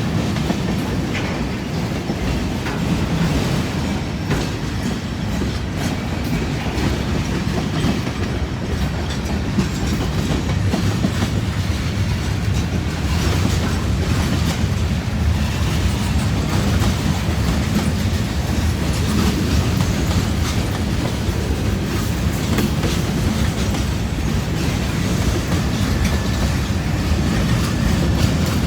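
A long freight train's cars rolling steadily past, steel wheels running on the rails.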